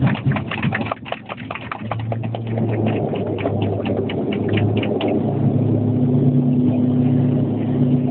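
Cabin noise of an Antonov An-140 on its landing roll, heard from inside. Its turboprop engines and propellers rumble while the cabin clatters and rattles rapidly for the first five seconds. Then the noise settles into a steady low propeller drone that holds.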